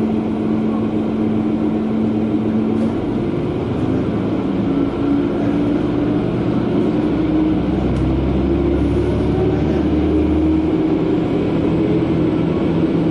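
Diesel railcar (KiHa 120) engine and running noise heard from inside the car. The engine holds a steady note for about three seconds, then its pitch climbs gradually as the train picks up speed, with a deep rumble in the middle.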